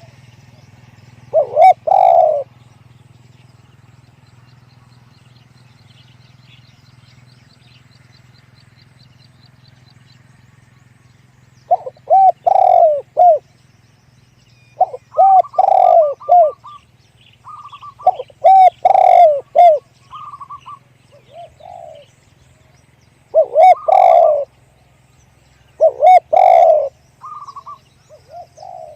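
Spotted dove cooing in repeated phrases of low, loud coos: one phrase, a pause of about nine seconds, then phrase after phrase in quick succession. A steady low hum runs underneath.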